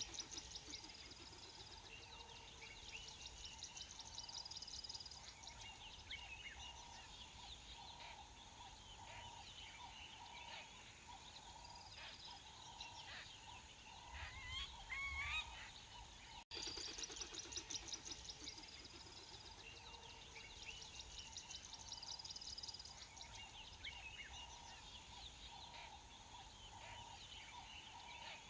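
Faint bird calls: many short chirps and trills together with a repeated pulsing call. After a brief dropout about halfway through, the same run of calls plays again.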